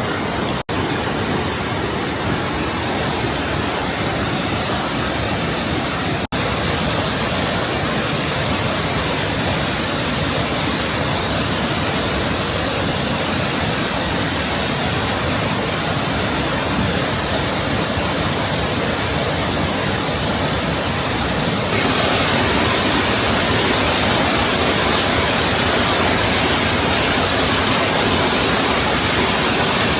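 Kegon Falls, a tall plunge waterfall, giving a steady, dense roar of falling water. It breaks off for an instant near the start and about six seconds in, then grows a little louder and hissier about 22 seconds in.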